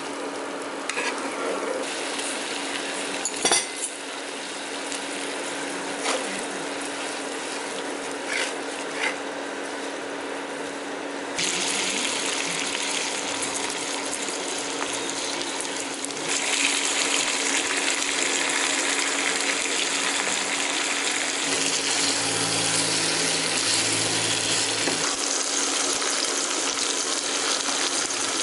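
Prawns and squid sizzling in a nonstick frying pan as they are stir-fried with a wooden spatula. There are a few knocks of the spatula against the pan, the sharpest about three and a half seconds in. The sizzle gets louder and brighter in steps at about 11 and 16 seconds in.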